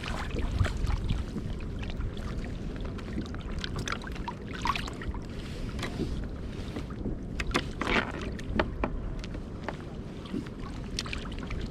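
Wind buffeting the microphone and water sloshing against a kayak at sea, with scattered sharp clicks and knocks throughout.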